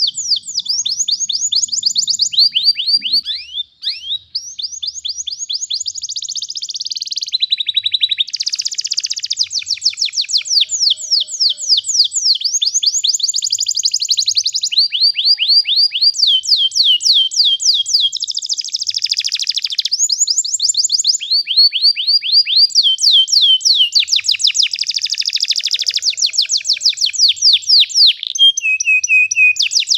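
Domestic canary singing a long, continuous rolling song: fast trills of rapidly repeated high, sweeping notes, switching to a new trill every second or two with hardly a break.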